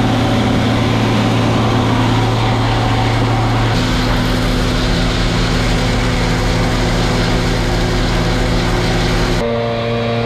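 Grain-handling machinery running at a steady loud hum, its tone shifting abruptly about four seconds in and again near the end.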